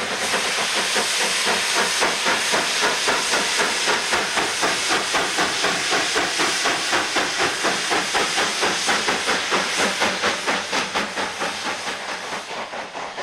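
Coal-fired narrow-gauge steam locomotive working, its exhaust chuffing in a fast, even rhythm of hissing beats that grow fainter near the end.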